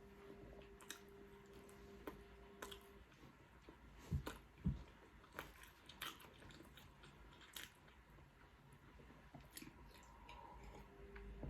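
Close-miked eating: quiet chewing and crunching with scattered small clicks, and two sharper crunches about four seconds in.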